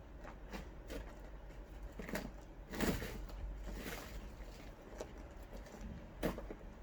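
Hands rummaging through compost in a bin: scattered soft scrapes and rustles with a few sharper knocks, the loudest about three seconds in and again near the end.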